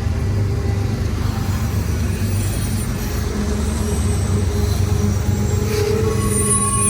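Train going by, its diesel locomotives giving a steady low rumble.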